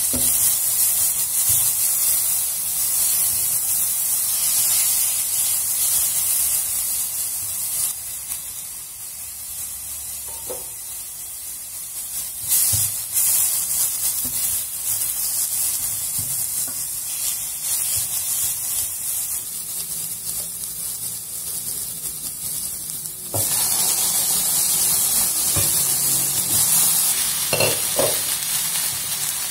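Chopped onion, carrot and curry leaves sizzling in hot oil in a nonstick pan while a spatula stirs them: a steady frying hiss that drops quieter about 8 seconds in and comes back louder about 23 seconds in. There are a few light knocks, one about 12 seconds in and a couple near the end.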